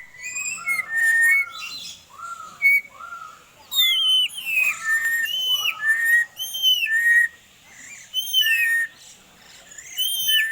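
A Papuan bird calling: a run of loud, short whistled notes, each rising then falling, repeated about twice a second, with higher whistles overlapping the lower ones.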